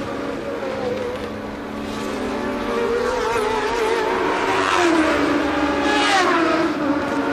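1982 Formula One race car engines at high revs, several notes overlapping. The pitch shifts up and down, dropping in steps about five seconds in and sweeping again near six seconds.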